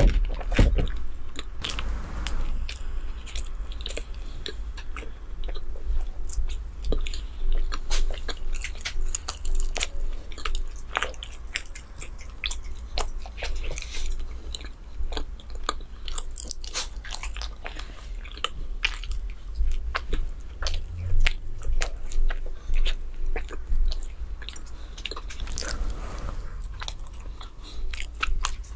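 Close-miked biting and chewing of chocolate bread. It is a run of many small, irregular crisp clicks and crackles as the bread is bitten and chewed.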